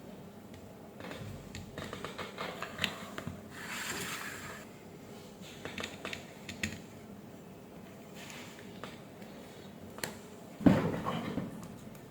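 Hands working with small parts and tools during reassembly: scattered light clicks and taps, a short rustle about four seconds in, and one louder knock near the end.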